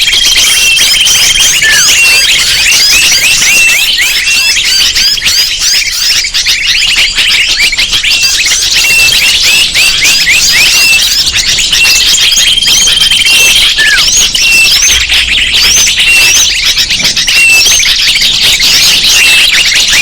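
Bird-lure recording: dense, shrill chirping of many small birds calling at once, with the calls overlapping without a break. A steady, whistle-like note is held for about a second near the start and again about two-thirds of the way through.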